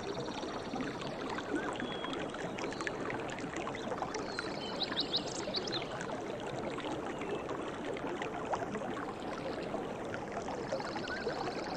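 Water running in a stream, a steady, even babble. A few short high chirps come about four to five seconds in, and a fast high trill near the end.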